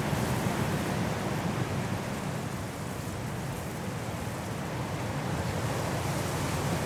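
High wind blowing through forest trees in a snowstorm, a steady deep rush that eases slightly midway and builds again near the end.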